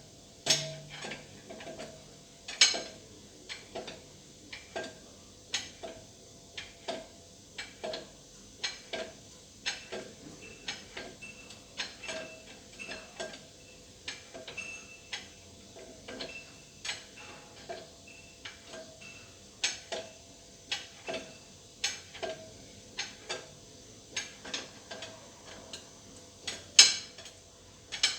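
Irregular light metallic clinks and ticks, about one or two a second, some sharper and louder than others.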